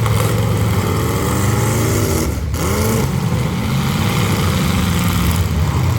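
Full-size demolition derby cars' engines running loud, with several revving up and down at once: one drops off briefly about halfway through and then climbs again.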